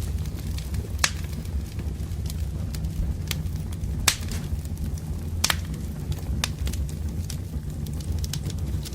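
Wood fire crackling, with sharp pops of burning logs over a steady low rumble of the flames; the loudest pops come about a second in, near four seconds and at about five and a half seconds.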